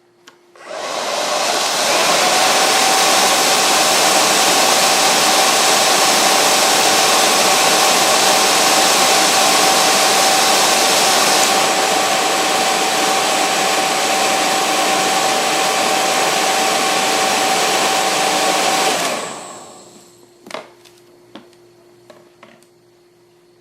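JMW hair dryer switched on and blowing hard: a loud, steady rush of air with a constant whine over it, a little less hissy about halfway through. It is switched off near the end and winds down, followed by a few sharp clicks.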